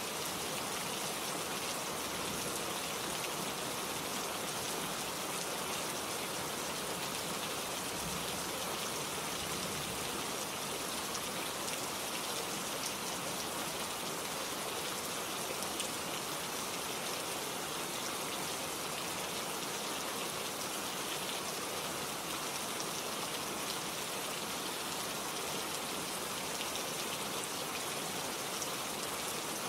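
Steady rain falling, drops pattering on leaves and surfaces in an even, unbroken hiss.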